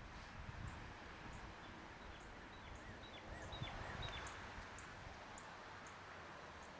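Faint outdoor ambience with birds chirping: a short high chirp repeating about twice a second, and a few quick calls in the middle, over a faint low rumble.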